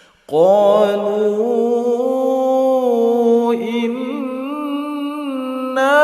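Solo voice reciting the Quran in melodic tajwid style, drawing out a long ornamented note. After a short breath pause the voice comes in with an upward glide, then holds the pitch with small wavering turns, and swells again near the end.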